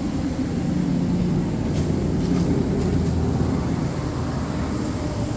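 A steady low mechanical hum with no clear start or stop.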